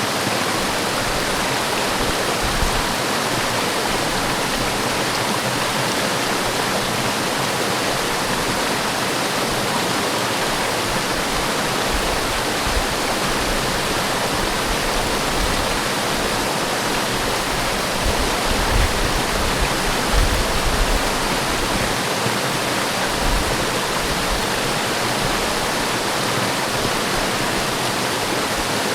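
Forest waterfall: a steady, dense rush of falling water, with a few brief low rumbles around two-thirds of the way through.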